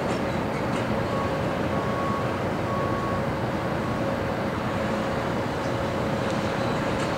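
Freight train rolling slowly past: a steady rumble of double-stack intermodal cars, with a faint steady whine running through it.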